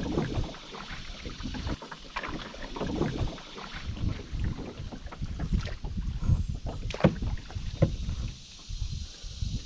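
Canoe paddle strokes in river water, a swirl and splash every second or so, with a few sharp knocks on the canoe, loudest about seven seconds in.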